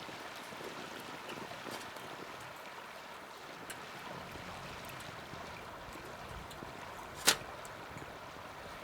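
Small wood campfire burning: a steady hiss with scattered small crackles, and one sharp, loud pop a little after seven seconds in.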